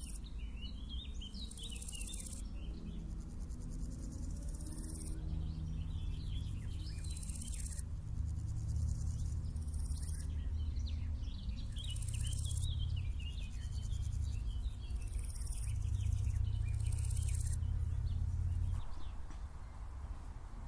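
Small songbirds chirping and twittering. Grasshoppers or crickets stridulate in high-pitched bursts of a second or more that come and go. Underneath runs a low hum that swells louder in the middle and drops near the end.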